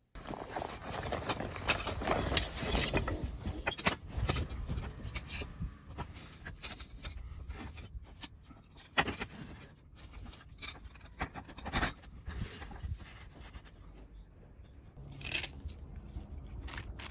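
Handling noise: irregular scraping and rubbing with sharp clicks and knocks as things are moved and set down, the loudest knocks about 4, 9, 12 and 15 seconds in.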